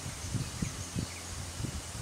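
Soft low knocks and rustles of a handheld camera and lens being handled, several in quick succession, with a few faint high bird chirps behind them.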